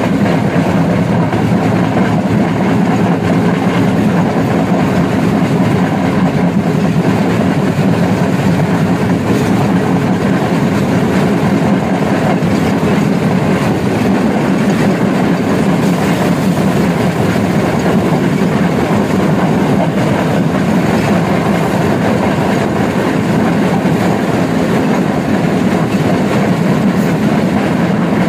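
Diesel-hauled passenger train running at speed, heard from an open carriage doorway: a steady, loud rumble of wheels on the rails.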